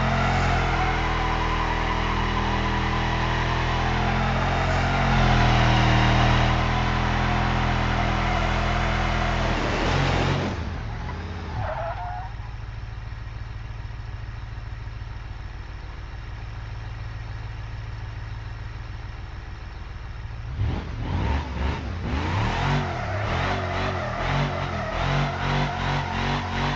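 LS1 V8 engine in a Ford F-150 pickup running hard for about ten seconds. The revs then fall away to a quieter, steady run. Near the end it picks up again, with a pulsing loudness.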